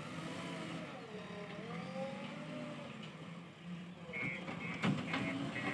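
JCB 3DX backhoe loader's diesel engine running under load, its pitch rising and falling as the hydraulics work the digging arm. About four seconds in a reversing beeper starts up, beeping evenly a couple of times a second, and a single sharp knock follows near the end.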